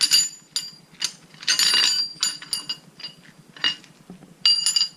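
Small metal engine fasteners clinking against each other and a hard surface as they are handled and sorted by length: a run of short, ringing metallic clinks, busiest about a third of the way in and again near the end.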